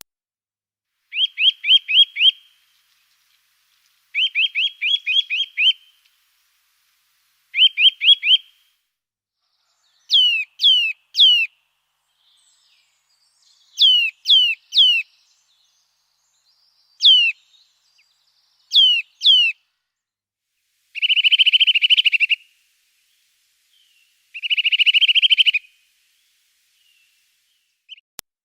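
A songbird singing in separate short phrases with silence between them. First come quick runs of four to six repeated notes, then groups of sharply falling whistles, and near the end two buzzy trills of about a second each.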